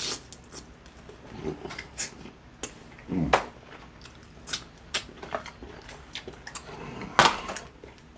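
Close-miked eating of crispy fried chicken: chewing and crunching with many short, sharp mouth clicks and two louder bursts, about three and seven seconds in.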